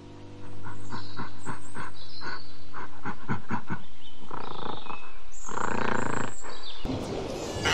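An animal calling in a quick run of short, rough pulses, about three a second, over a steady music bed, ending abruptly near the end.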